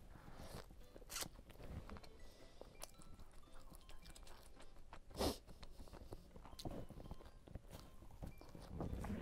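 Close-up eating sounds: biting into and chewing a soft wrapped roll, with small wet mouth clicks and smacks and one louder sudden sound about five seconds in.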